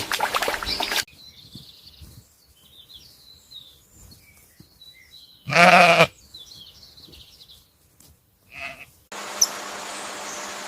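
An animal gives one loud, wavering call about half a second long near the middle, then a short, fainter call a few seconds later. Faint high chirps sound in the quiet stretch between them. A noisy passage ends about a second in, and a steady hiss starts near the end.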